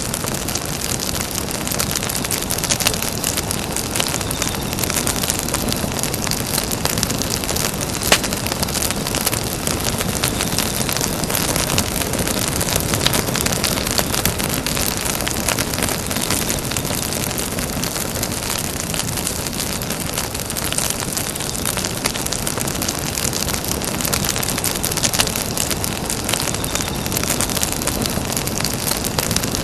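Campfire burning: a steady rushing hiss of flames with frequent small crackles and pops from the burning wood, and a few sharper pops scattered through.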